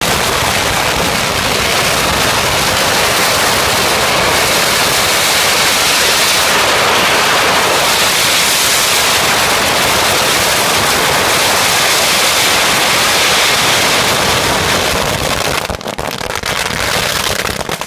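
A long string of firecrackers going off in a dense, continuous crackling rattle. It thins out near the end and cuts off suddenly.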